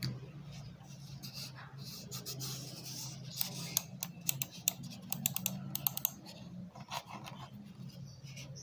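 Irregular sharp plastic clicks and scraping from small plastic parts being handled, over a steady low hum; the clicks cluster in the middle and thin out near the end.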